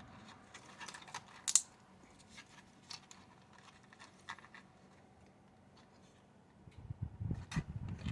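Light clicks and taps of small model parts and hobby tools being handled at a workbench, with one sharp click about a second and a half in and busier handling noise near the end.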